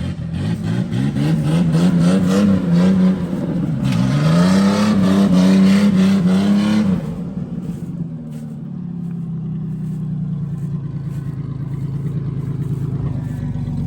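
Car engine revving hard twice, each time climbing and holding high for a couple of seconds. It then drops to a lower, steady run for the last several seconds.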